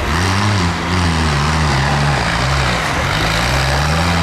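Tractor engines running, their pitch rising and falling as the throttle changes.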